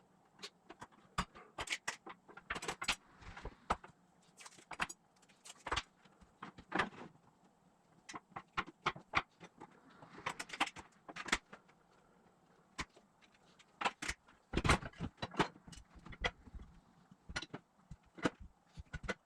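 Irregular clinks and taps of thin metal parts being handled and set down, with a few heavier knocks about fifteen seconds in.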